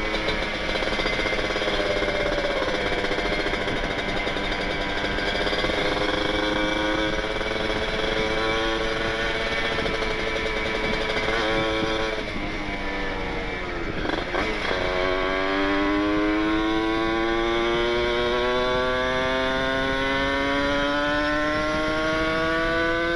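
Kawasaki Ninja 150RR two-stroke single running through an aftermarket Aitech carbon-Kevlar silencer with an R9 expansion chamber, on the move. The note holds steady and slowly rises, then drops off about twelve seconds in as the throttle closes. From about fifteen seconds it climbs steadily in pitch as the bike accelerates.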